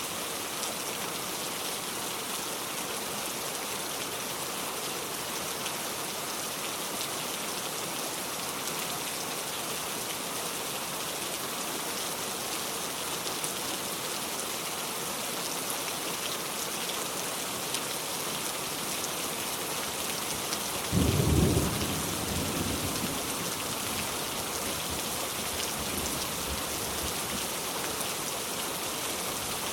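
Steady heavy rain, with a single thunderclap about two-thirds of the way through: a sudden loud low crack that dies away into a rumble over several seconds.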